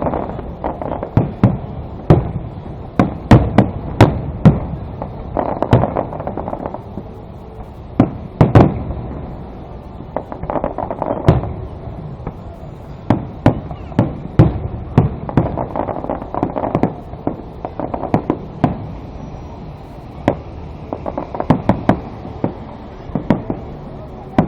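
Fireworks display going off: a rapid, irregular series of bangs with crackling in between, the loudest reports coming in clusters about three to four seconds in and again near eight and a half seconds.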